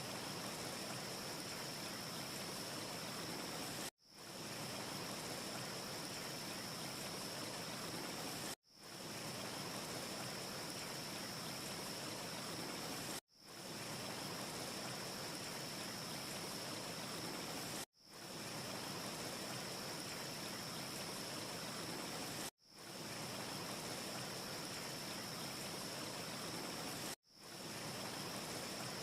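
Steady hiss of a looped wind ambience track, with a faint high whine running through it. About every four and a half seconds it cuts out abruptly and fades back in, six times over: the short loop restarting.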